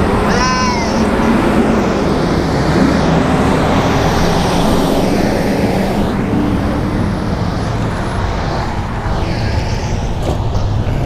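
Steady rush of wind and road noise while riding an electric bike along a street, with motor traffic going by.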